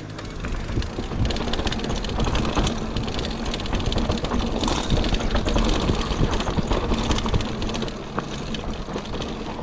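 Mountain bike rolling fast down a wet dirt trail: a steady rumble with constant clattering and rattling from the bike over rough ground.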